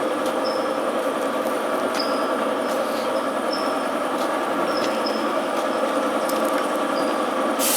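Machinery running steadily with an even hum, with faint short ticks and squeaks over it.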